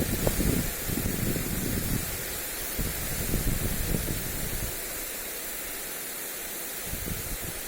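Lawn sprinkler spray hissing steadily onto grass, with wind gusts buffeting the microphone in the first half that ease off, then pick up again near the end.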